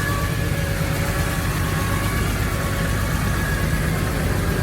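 A vehicle engine running at a steady idle, a constant low rumble with no revving.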